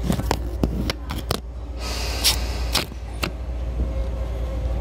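Tobu 9000 series electric train running: a steady low rumble with a run of sharp clicks in the first second and a half and a brief hiss about two seconds in.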